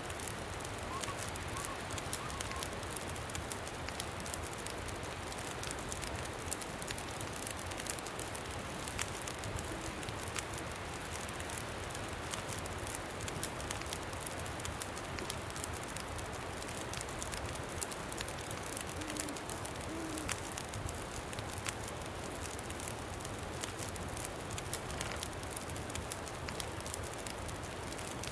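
Campfire crackling with a steady rush of wind. A few short, faint owl hoots come through about ten seconds in and again near twenty seconds.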